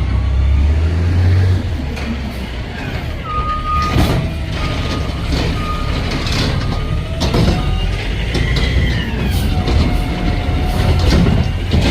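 Garbage truck running, its reversing alarm beeping about once a second for five beeps over the diesel engine's rumble. Whines rising and falling in pitch come from the truck near the end.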